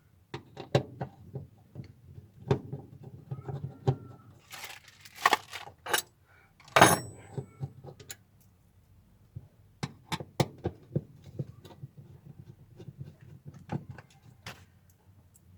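Irregular clinks, clicks and knocks of metal tools and parts being handled during hands-on car repair work, with a louder clatter between about five and seven seconds in.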